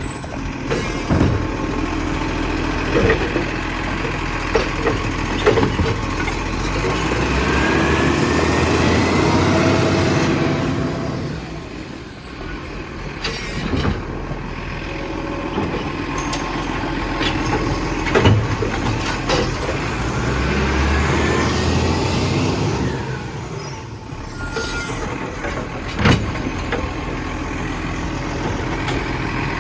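Garbage truck working a collection route: its engine runs with two louder surges, the air brakes hiss three times about twelve seconds apart, and there are a few sharp knocks.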